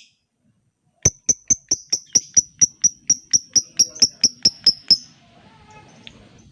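Lovebird giving a long, rapid string of sharp high chirps, about four to five a second for some four seconds, then breaking off: the drawn-out 'ngekek' chatter that lovebird keepers play as a lure.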